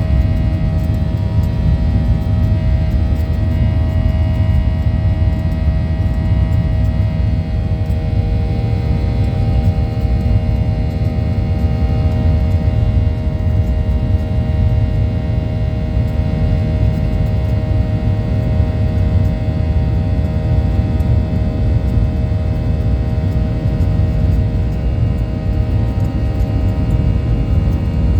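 Boeing 737-800 cabin noise in flight: a steady, loud rumble of airflow and engines, with a constant whine of several fixed tones from its CFM56-7B turbofans.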